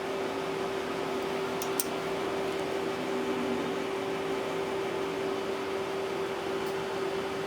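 Steady machine hum with a constant hiss, like a fan running, with a couple of faint light clicks about two seconds in.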